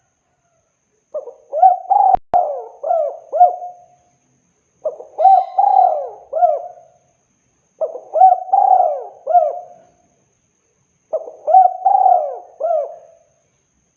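Spotted dove (tekukur) cooing: four repeated song phrases, each a run of several rising-and-falling coos, with short pauses between them.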